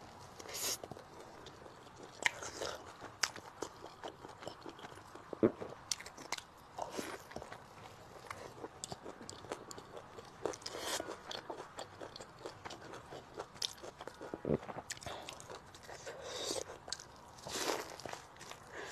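Close-miked eating sounds: a person chewing a mouthful of noodles, with irregular wet mouth clicks and smacks.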